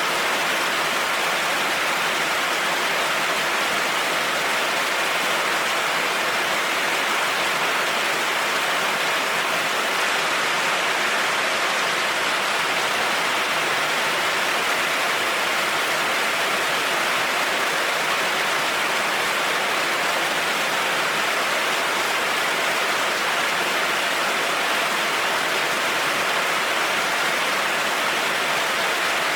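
Heavy rain falling in a steady, even hiss, with no changes or separate strikes.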